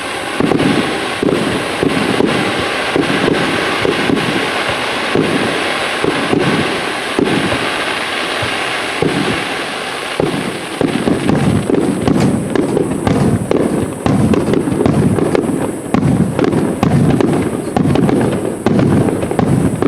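Aerial fireworks display: many shells bursting in quick succession, overlapping booms with crackle between them.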